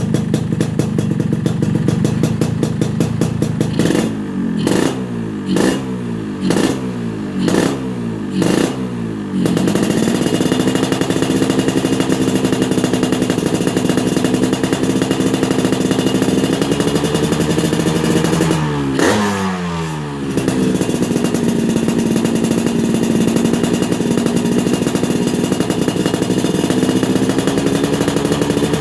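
Yamaha RX-King 135cc two-stroke single running through a Peak Racing 'standar racing' exhaust. It runs steadily, is blipped about five times in quick succession, then is held at steady raised revs. It dips and climbs once about two-thirds of the way through and holds steady again.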